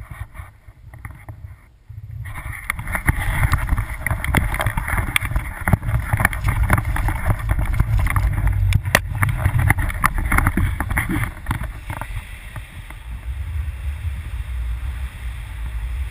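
Wind buffeting the microphone in a low rumble, with dense crackling for most of the stretch that eases off near the end.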